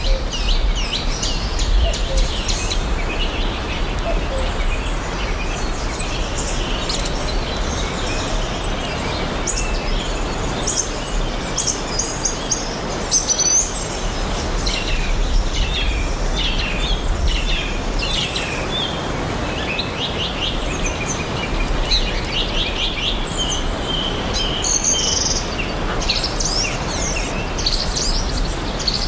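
Songbirds chirping and trilling in quick, high-pitched phrases, overlapping throughout, over a steady outdoor hiss with a low rumble.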